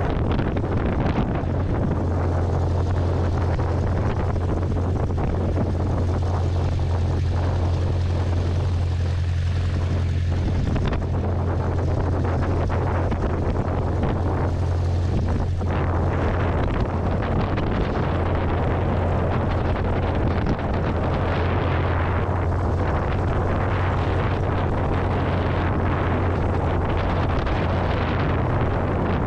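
Light airplane's engine and propeller running steadily: a constant low drone with a rushing noise over it.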